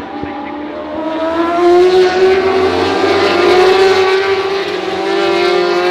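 Superbike racing motorcycles at high revs. The engine pitch climbs from about a second in as they accelerate, then holds high with small rises and dips.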